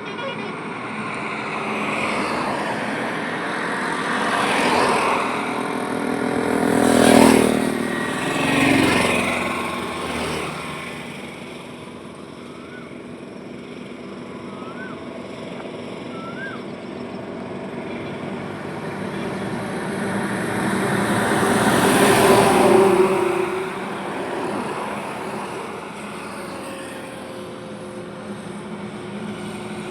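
Highway traffic, vehicles passing one after another over a steady road noise. Engine notes swell and fade as each goes by, with two loud passes close together about seven and nine seconds in and another long loud pass around twenty-two seconds in.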